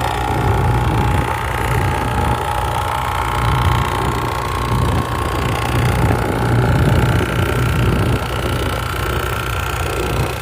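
A workshop machine running steadily with a constant low hum and a rasping, scraping sound, as of a tool cutting or grinding metal.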